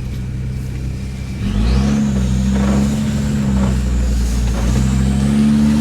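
Land Rover Discovery Td5's five-cylinder turbodiesel engine running low, then revving up about a second and a half in and pulling steadily, with a faint high whine rising alongside. The revs dip briefly and climb again near the end.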